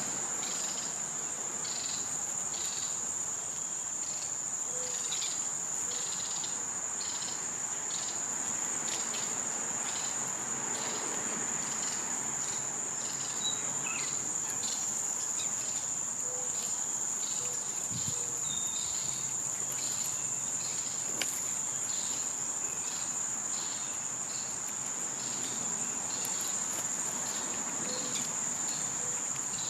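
Summer insect chorus: a steady, high-pitched drone, with a quicker pulsing insect rhythm beneath it and a few brief bird chirps.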